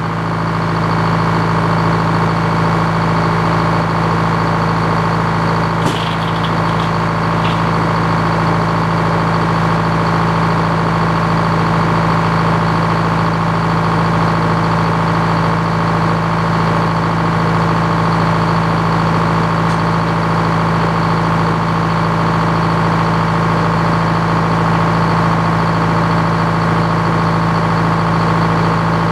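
Antique Frick sawmill running steadily at an even speed, its drive engine humming with no change in load. A few faint metallic clicks come about six to seven and a half seconds in.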